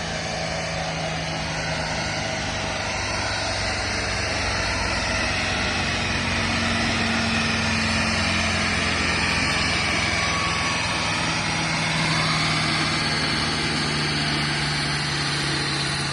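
Supercharged 6.2 L LT4 V8 of a tuned C7 Corvette Z06 running steadily on a chassis dyno, loud, growing a little louder through the middle and easing off near the end.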